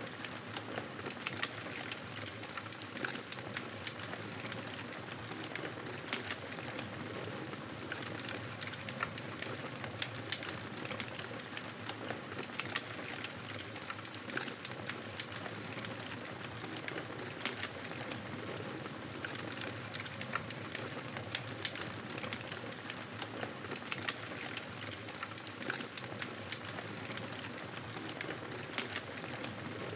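Fireplace fire crackling: many irregular small pops and snaps over a steady hiss.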